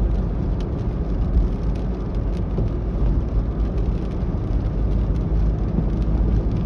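Steady low drone of road and engine noise inside a moving truck's cab.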